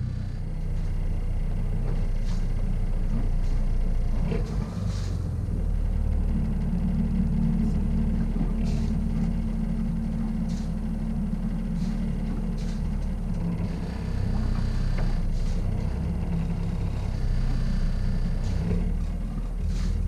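A boat's motor running at a steady speed, a continuous low rumble with a few light clicks over it.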